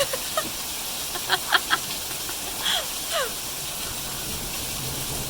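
Steady hiss of heavy rain, with a few short high chirps and two quick falling calls over it.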